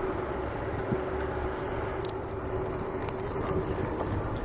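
Steady road and wind noise from riding a bicycle, with a faint steady hum and a few light clicks.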